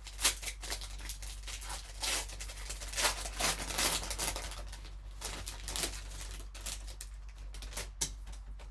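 Crinkling and crackling of card packaging being handled and opened by hand: a dense run of sharp irregular crackles and clicks, with a steady low electrical hum beneath.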